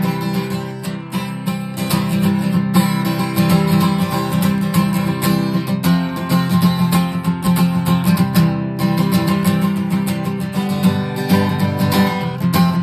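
Instrumental break of a rock-and-roll song, led by guitar playing a lively, strummed and picked passage with no singing.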